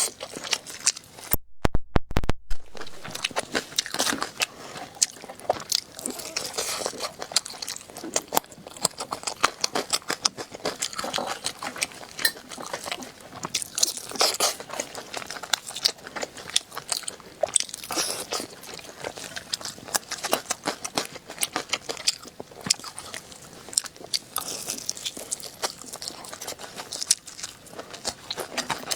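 Close-miked crunching and chewing of ribs, a dense run of sharp crackles and bites, with a brief break about two seconds in.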